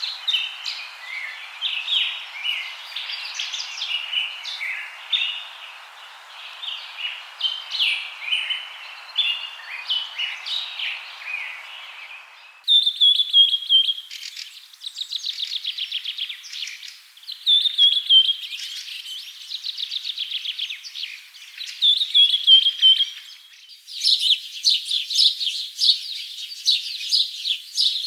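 Birds chirping and calling, many short notes over a steady hiss of background noise. About halfway through the sound cuts abruptly to rapid trills and repeated down-slurred calls, then changes again near the end to dense, high chirping.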